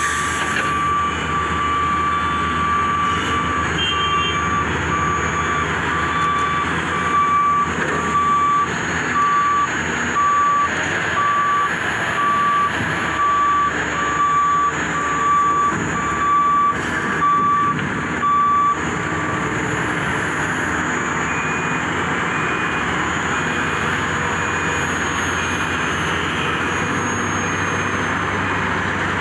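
Heavy diesel engines of a Volvo EC480DL excavator and a Scania dump truck running steadily under a reversing alarm. The alarm sounds at first as a held tone, then beeps about once a second, and stops about two-thirds of the way through.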